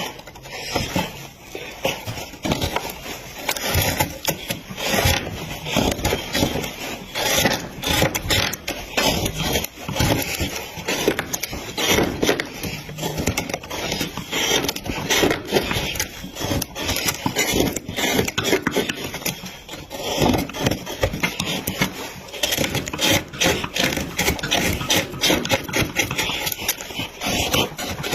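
A tool scraping and cutting into wood in quick, irregular strokes.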